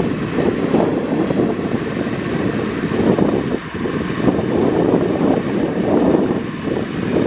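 Heavy diesel earthmoving machinery running continuously, its engine noise swelling and easing under load.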